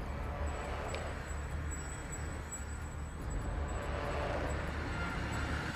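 Car engine running with a low rumble and road noise, swelling a little louder about three and a half seconds in, as in a movie car-chase sound mix.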